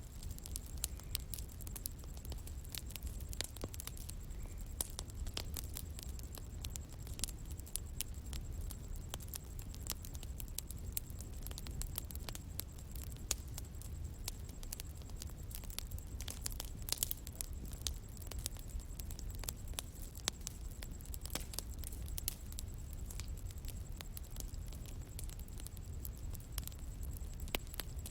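Bonfire burning, with irregular sharp crackles and pops over a steady low rumble of flame.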